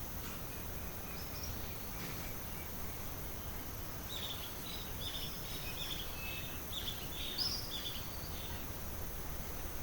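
Tropical forest ambience: a bird gives a quick run of short, high chirps from about four seconds in until about eight seconds. Underneath are a steady high insect drone and a low rumble of wind.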